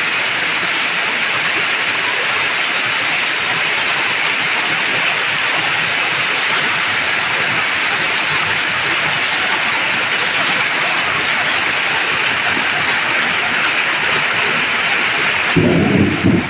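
Heavy rain falling in a steady hiss on foliage and ground, with water pouring off a roof edge. Near the end a brief, louder low rumble comes in over the rain.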